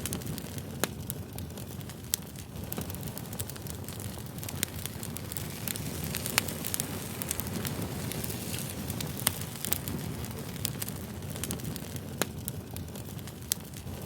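Campfire crackling: sharp pops and snaps at irregular moments over a steady low rumble of burning wood.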